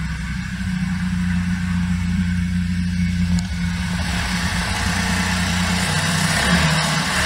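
BMW 116i (F20) petrol engine idling steadily as a low hum, with no rattle, after its VANOS solenoid valve and valve cover seals were replaced. More hiss comes in from about four seconds in.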